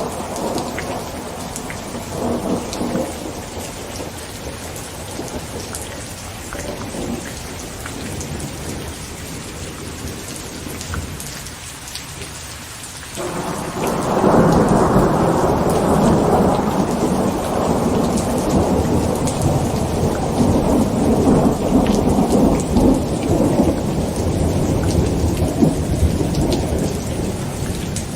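Heavy rain drumming on a tent with thunder. An earlier rumble fades away in the first half, then thunder breaks suddenly about halfway through and rumbles loudly for the rest.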